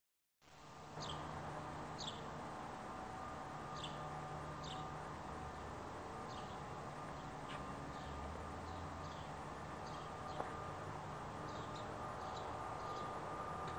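Birds chirping over and over in short, downward-sweeping calls, over a steady low hum of outdoor background noise; one sharp click about ten seconds in.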